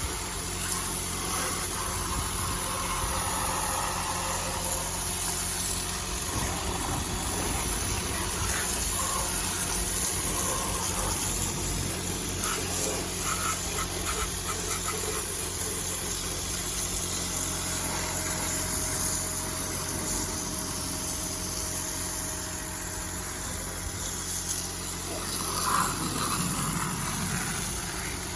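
Water from a hose splashing and gurgling over a car's engine bay while the Nissan Note e-POWER's three-cylinder petrol generator engine idles steadily underneath.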